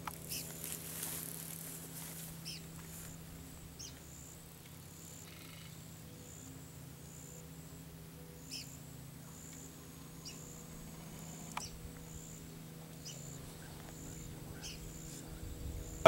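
Faint outdoor ambience: short, sharp bird chirps every second or two, over a steady low hum and a faint high note pulsing about once a second.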